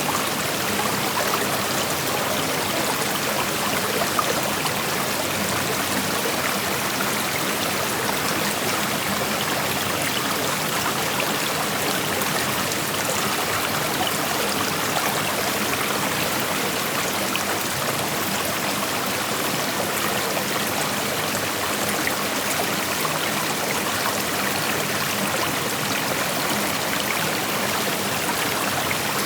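Creek water flowing over rocks: a steady rushing and babbling, even throughout.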